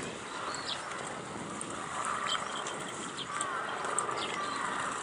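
Birds chirping: short, high calls come several times, over a steady background haze.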